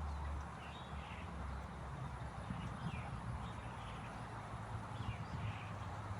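Outdoor ambience: a steady low rumble with a few faint, short bird calls scattered through it.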